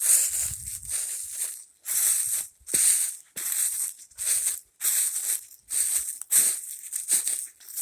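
Footsteps crunching through dry leaves and forest litter at a steady walking pace, about ten crunching steps.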